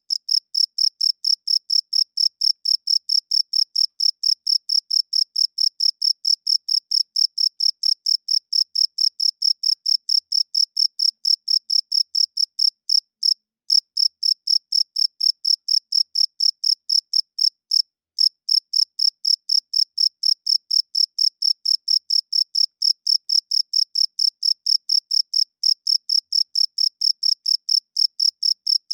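A male cricket chirping in a fast, even pulse train of high-pitched chirps, several a second, made by rubbing its wings together. The chirping breaks off briefly twice about halfway through.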